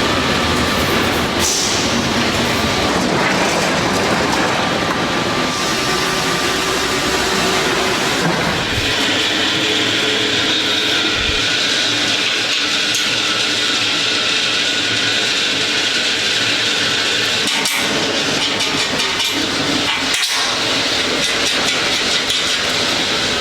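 Loud, steady factory machinery noise. About nine seconds in it changes: the low rumble drops away and a hiss comes up.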